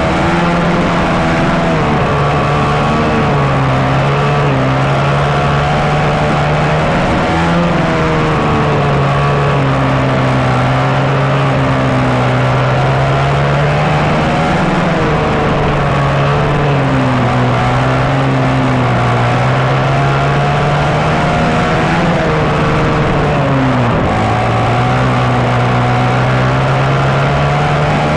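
Engine running with the slide fallen out of its slide carburettor, so there is no throttle control and air swirls through the carburettor. The revs hunt up and down slowly by themselves, with a brief dip near the end.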